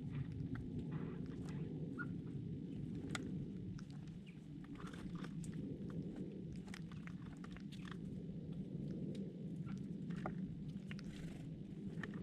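Small birds pecking at close range: many short, sharp ticks and taps, with a few brief chirps, over a steady low rumble.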